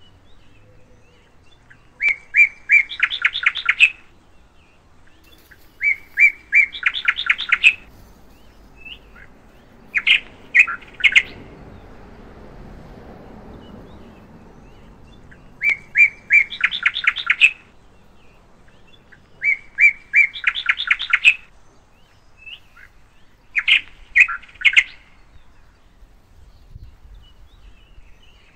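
A songbird singing in repeated phrases, each a few clear notes followed by a fast trill, coming about every four seconds.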